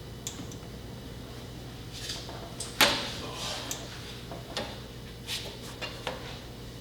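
Scattered knocks and clatters of parts and tools being handled, with one loud knock about three seconds in, over a steady low hum.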